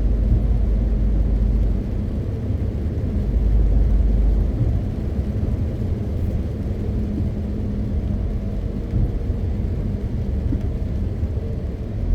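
MAN TGX 520 truck's straight-six diesel engine running under way, with a steady low drone and road rumble. The drone eases about two seconds in and swells again briefly a second or two later.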